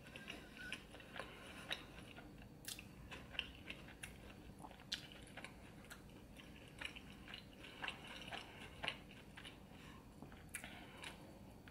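A person chewing food with the mouth, making irregular short clicks and smacks.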